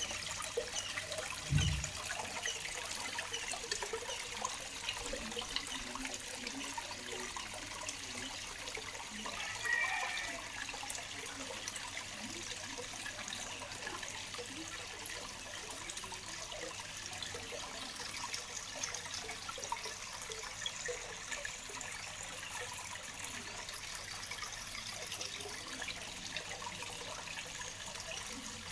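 Waterfall: a steady rush of falling water, with a short low thump about one and a half seconds in.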